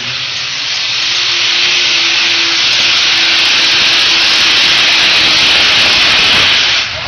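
A pulling tractor or truck engine running flat out down the track: a loud, steady, hissing roar that grows slightly louder and cuts off abruptly near the end.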